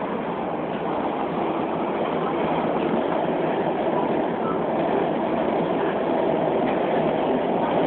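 Beijing Subway Line 4 train running between stations, its rumble and hiss growing steadily louder as it picks up speed.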